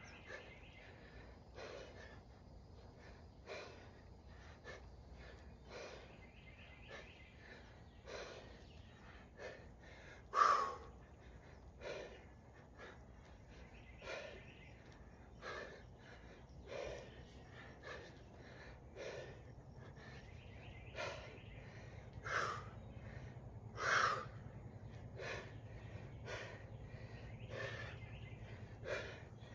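A person breathing hard and rhythmically from heavy exertion, in short breaths about once a second, with a few sharper, louder exhales.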